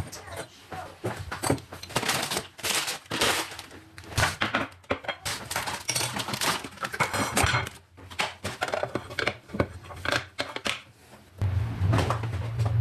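Kitchen dishes, pots and utensils clattering and knocking as they are handled. A steady low hum starts near the end.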